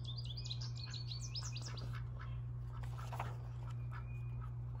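Small songbird chirping: a quick string of short high chirps through the first second and a half, then only scattered chirps, over a steady low hum.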